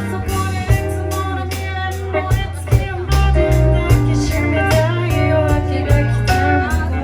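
Live band music: electric guitar, bass and drums playing a blues-style song.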